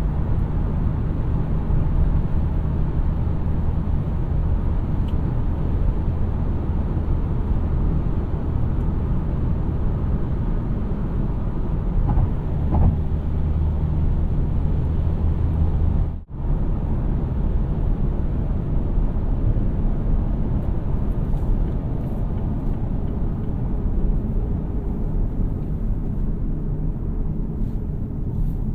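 A 2017 Mazda CX-3's 2.0-litre SkyActiv-G four-cylinder petrol engine and its tyres on the road while driving: a steady engine hum over a low road rumble. The sound drops out for a split second about two-thirds of the way through.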